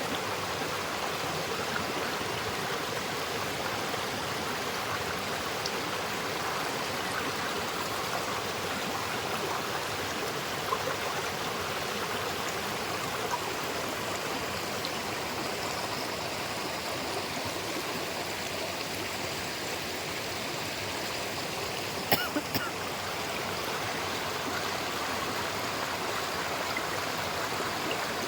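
River water flowing over rocks with a steady rush, with a few brief sharp clicks about eleven seconds in and again in a quick cluster past the twenty-second mark.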